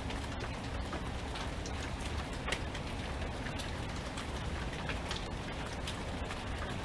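Steady rainfall, with many individual drops striking a surface close by as short, sharp hits over the even hiss.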